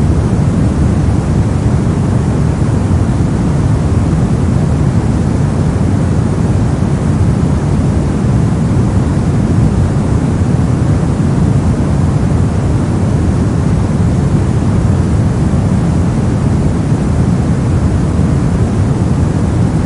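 Synthetic brown noise: a steady, deep rushing hiss with most of its energy low down and little in the highs, unchanging throughout.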